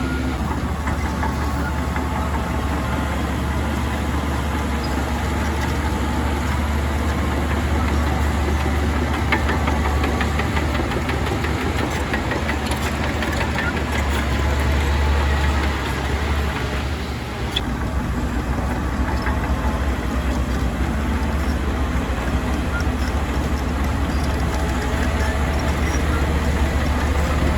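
Heavy diesel engines of earthmoving machinery running steadily with a deep, even hum, dipping briefly about two-thirds of the way through.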